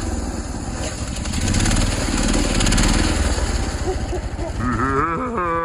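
Mini bike engine running hard close by, with a steady run of low firing pulses. Near the end a wavering pitched tone rises and then falls away.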